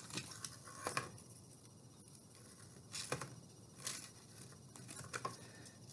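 Faint rustling and a few soft taps from hands tying a twine knot on a cardboard tube, in a quiet small room.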